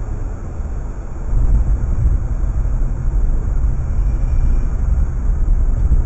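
Low, steady rumble of a car on the move, engine and road noise together, growing louder about a second in.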